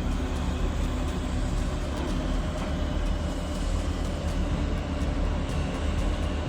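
Logging truck engine running steadily, a deep low rumble with an even mechanical noise over it.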